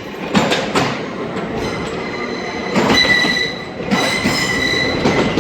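TransPennine Express train pulling out, its wheels clattering over the rail joints in a series of knocks. From about a second and a half in there is a steady high-pitched wheel squeal.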